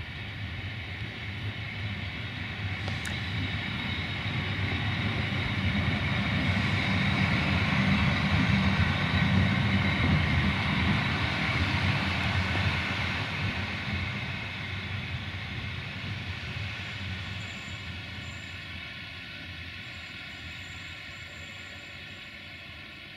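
Train passing through the station: a low rumble with a steady whine that builds to its loudest about nine seconds in, then fades slowly as it moves away. A single sharp click about three seconds in.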